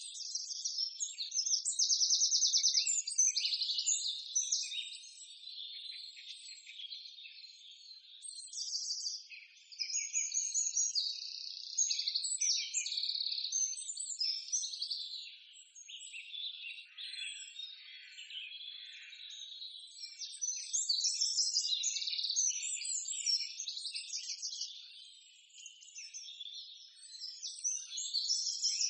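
Birds chirping and chattering in quick high-pitched bursts, in busy clusters that rise and fade every few seconds.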